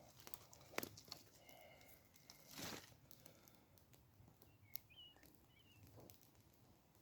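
Near-silent woodland: a sharp click about a second in, a brief rustle near the middle, and a few faint high chirps later on.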